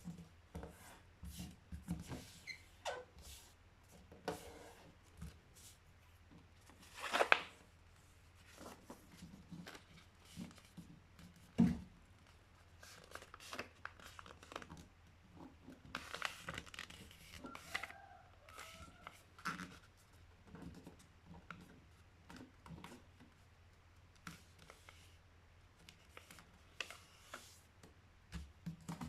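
A sheet of paper being folded and creased by hand: scattered soft rustles and crinkles, with two louder crisp rustles about seven and twelve seconds in.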